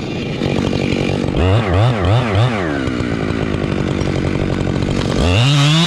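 Husqvarna two-stroke chainsaw running, revved up hard about a second and a half in and held with the revs wavering up and down, then easing off and revved up again near the end.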